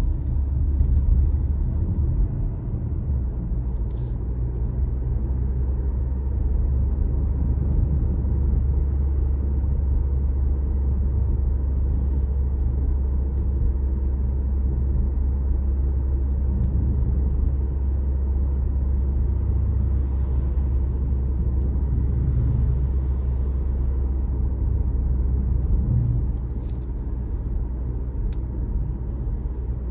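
Car driving on the road: a steady low rumble of engine and tyre noise, with a brief click about four seconds in and a slight drop in level near the end.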